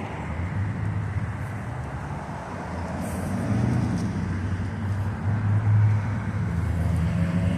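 Road traffic on a city street: cars passing with a low engine rumble that swells as vehicles go by, about halfway through and again later.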